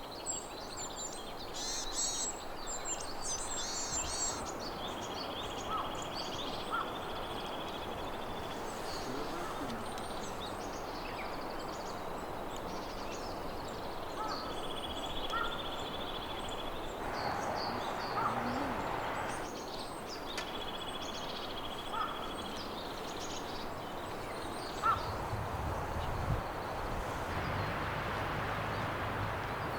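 Small songbirds calling over a steady rushing background. A high, even trill comes three times, each about three seconds long, with scattered chirps between.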